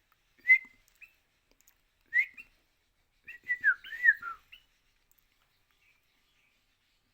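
Kutilang (sooty-headed bulbul) calling: two short whistled notes, then about three seconds in a quick phrase of several slurred, up-and-down whistled notes.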